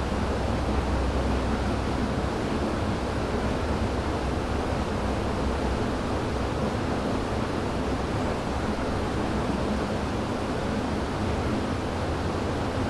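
River water rushing in a steady, even flow, a dense wash of sound with a deep low rumble beneath it and no birdsong or other events standing out.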